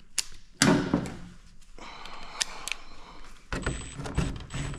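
Scattered knocks, clicks and rattles of hands handling a tractor cab roof and its fittings, with one louder knock about half a second in.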